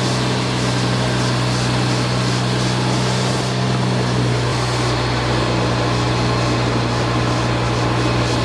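Machinery running steadily, with a strong constant low hum over a continuous hiss.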